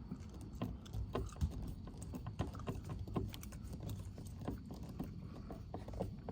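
Irregular small clicks and knocks, a few a second, over a low rumble: hand work on a car's interior door panel as it is fitted back on.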